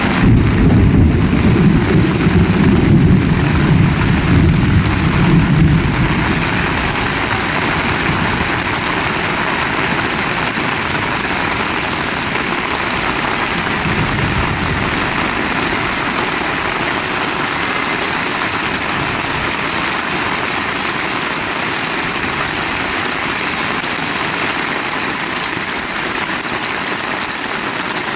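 Heavy rain falling steadily in a constant hiss. A loud low rumble lies under it for the first six seconds, then dies away.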